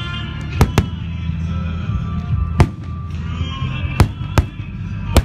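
Aerial fireworks shells bursting: six sharp bangs, some in quick pairs, over music playing throughout.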